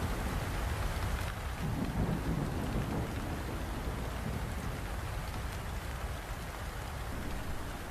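Steady rain falling, with a low rumble underneath that is strongest in the first couple of seconds and then eases.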